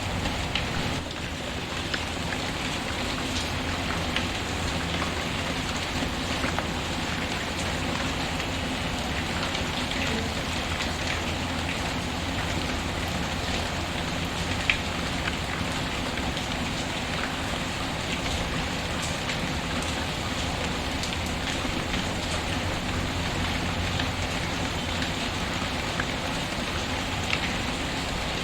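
Steady rain, with scattered sharp crackles and pops from a wood fire, one louder pop about halfway through.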